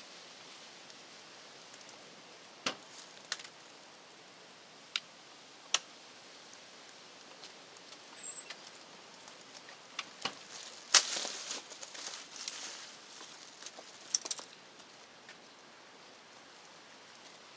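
Scattered sharp clicks and taps with short bursts of rustling, from tools and parts being handled. The loudest click comes about eleven seconds in.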